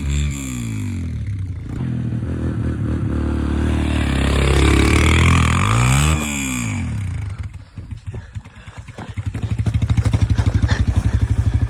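Yamaha TT-R125 dirt bike's single-cylinder four-stroke engine revving up and down as it is ridden through snow. A little past halfway it drops quieter for a moment, then settles into a steady idle with a quick, even chug.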